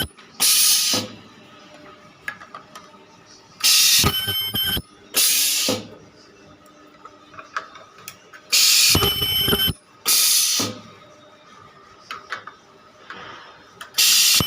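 Ultrasonic plastic welding machine running repeated weld cycles on mobile charger housings, about one every four and a half seconds: each cycle is a loud, harsh burst with a high squealing tone, followed by a short hiss, with faint mechanical ticks in between.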